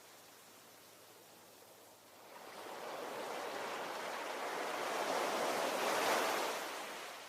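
Ocean waves: a quiet lull, then a wave rises from about two seconds in, washes in loudest near six seconds and ebbs away.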